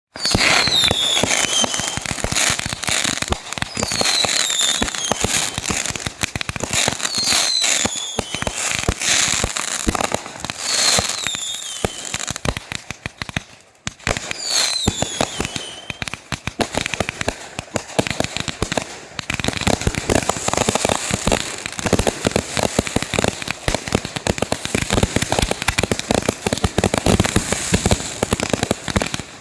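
Fireworks going off: rapid crackling and popping throughout, with a falling whistle repeating every few seconds in the first half. The crackling grows denser and faster about two-thirds of the way in.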